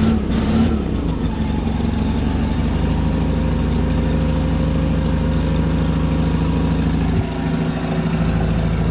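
Small tractor engine running steadily just after a cold start, left to warm up. The sound drops a little for about a second, some seven seconds in.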